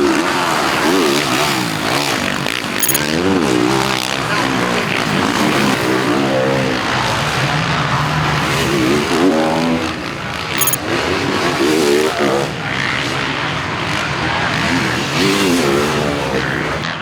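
Several 450-class motocross bikes racing, engines revving up and down again and again as the riders work the throttle, their notes overlapping.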